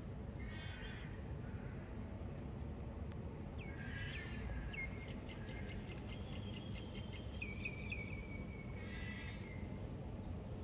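Birds calling: a short harsh call about half a second in and another near the end, with a run of quick high chirping notes in the middle, over a steady low background noise.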